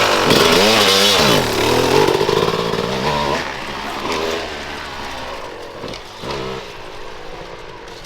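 Dirt bike revving up and down twice, then riding off and fading into the distance.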